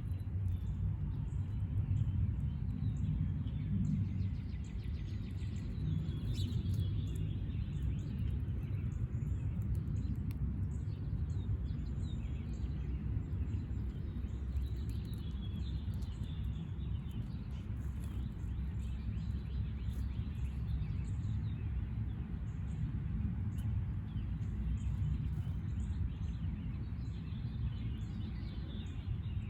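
Small birds chirping and twittering on and off over a steady low rumble of background noise.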